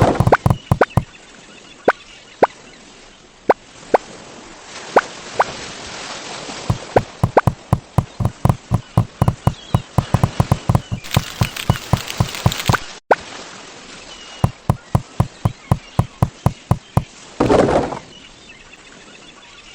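A long run of short, sharp knocks, several a second, that stops and starts again. A stretch of hiss comes in just past the middle, and a brief louder burst comes near the end.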